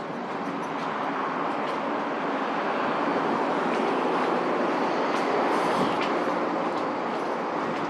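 A vehicle running with a steady rushing noise that grows to its loudest about six seconds in and then eases slightly, with faint clicks over it.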